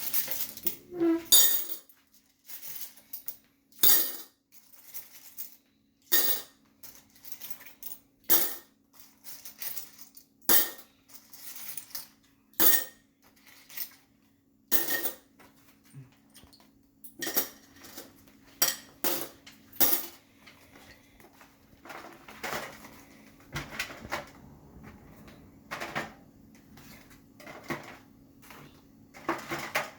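Coins clinking: many sharp, irregular metallic clicks a second or two apart as small hard objects are handled and dropped, over a faint steady hum.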